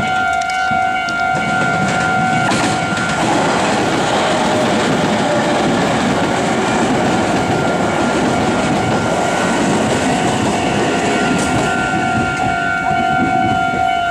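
Japanese level-crossing alarm ringing its repeated electronic bell while a Meitetsu electric train passes with wheel and rail clatter. The train's noise drowns out the bell for most of the passage, and the bell is heard again once the train has gone by.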